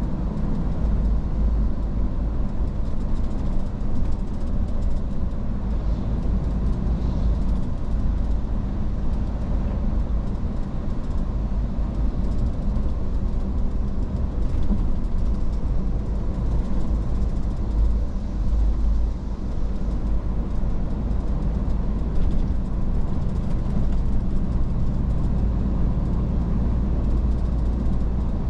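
Iveco S-Way truck driving along: a steady low engine and road rumble that holds even throughout.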